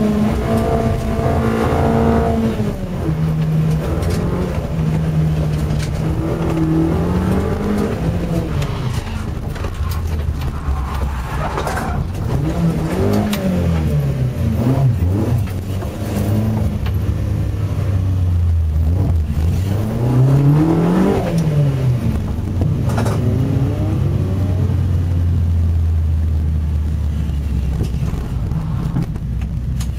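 Car engine heard from inside the cabin, revving up and falling back again and again through the slalom, with sharp blips of revs about halfway and two thirds of the way in, then running steadily at low revs near the end as the car rolls slowly.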